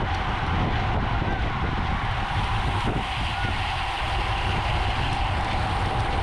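Steady wind rush and road rumble of a racing bicycle riding at speed, heard on a bike-mounted camera's microphone.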